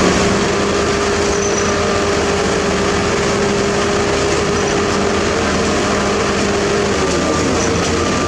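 Heavy diesel construction machinery running steadily, with a steady hum that drops and fades about seven seconds in.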